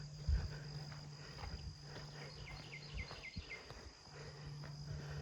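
Insects trilling steadily at a high pitch, with a bird giving a quick run of about six short, downward-slurred notes around the middle, and a few soft footfalls.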